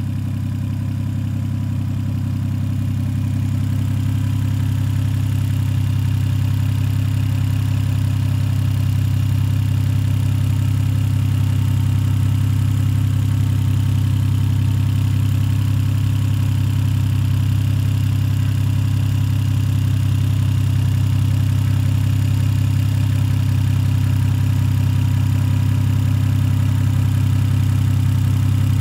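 Toyota 1JZ-GTE turbocharged straight-six engine idling steadily with a low, even hum.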